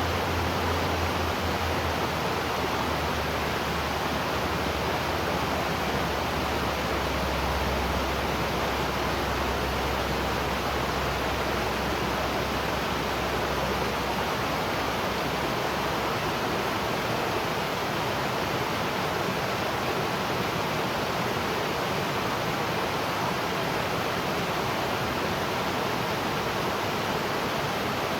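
Waterfall rushing steadily, an even hiss of falling water. A low hum underneath fades out about halfway through.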